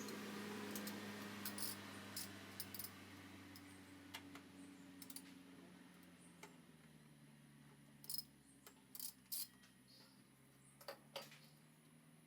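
Scattered light clicks and clinks of tools or small metal parts being handled, in two groups, early and again from about eight seconds in, over a faint low hum that slowly drops in pitch.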